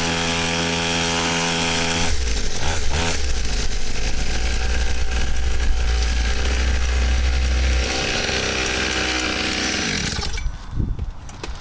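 Small 49cc two-stroke pit bike engine buzzing at high revs, held at a steady pitch at first and turning rougher about two seconds in. The sound drops away sharply about ten seconds in.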